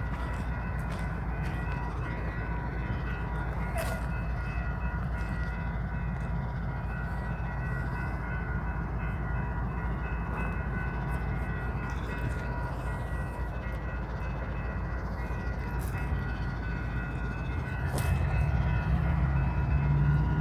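BNSF freight train running with a steady low rumble and a thin steady whine over it. About eighteen seconds in, a louder, deeper engine drone comes up.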